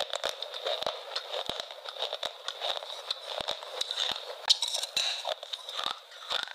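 Close-miked chewing: a dense run of crisp crunches and wet mouth clicks as food is bitten and chewed, with one sharper crack about four and a half seconds in.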